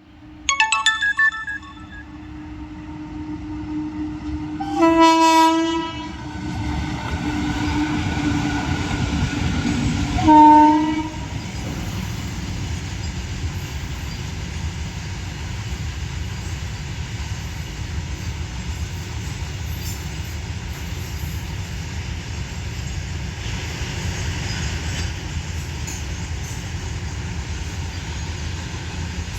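Horn of a double-headed pair of WAP-7 electric locomotives: a few quick toots at the start, a loud blast about five seconds in, a longer softer tone falling slightly in pitch, and another short blast about ten seconds in. After that the train passes with a steady rumble.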